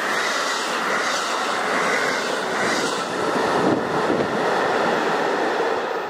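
ICE high-speed train running through the station at speed: a loud, steady rush of wheels on rail and air, with some clickety-clack.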